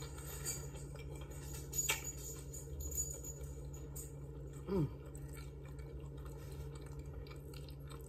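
Quiet chewing of a bite of chicken sandwich on a soft roll, with a few faint clicks and a short falling hum about five seconds in, over a steady low background hum.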